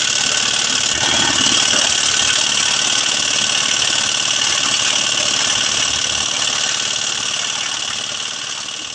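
An engine running steadily with a fast, even chugging, gradually growing quieter over the last few seconds.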